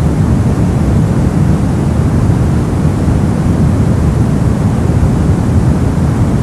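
Brown noise: a steady, even hiss heaviest in the low end, like a deep rumble, unchanging throughout.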